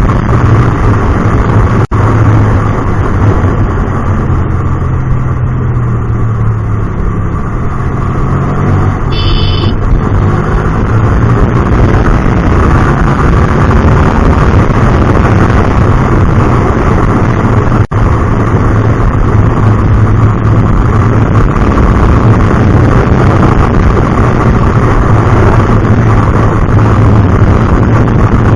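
Hyosung GT250R's 250 cc V-twin engine running through an aftermarket Solfer exhaust while riding, the note easing off and dropping for a few seconds then pulling steadily again. A short high beep cuts in about nine seconds in.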